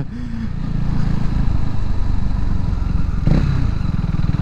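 Modified KTM RC 390's single-cylinder engine running loud with a fast, even beat, its level building over the first second and then holding steady.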